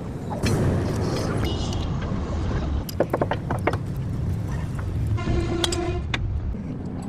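A motor vehicle engine rumbles steadily and low, with a few sharp clicks about three seconds in. Near the end comes a short horn-like toot lasting under a second.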